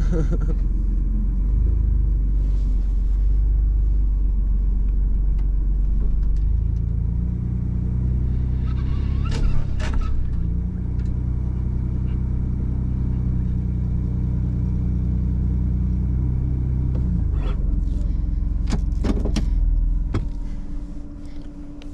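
2021 Ford Bronco engine running at low speed while the truck crawls up a tilted rollback tow-truck bed. The engine note rises about six seconds in and drops back around seventeen seconds, with a few short clicks. Near the end it settles to a very quiet idle.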